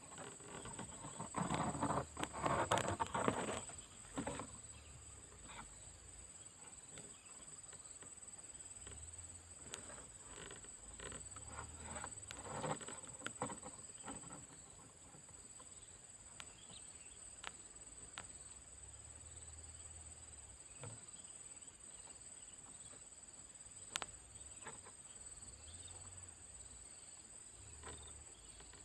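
Outdoor ambience: a steady high insect hum, with rustling and a few sharp clicks. The rustling is loudest between about one and a half and four seconds in, and again about twelve seconds in.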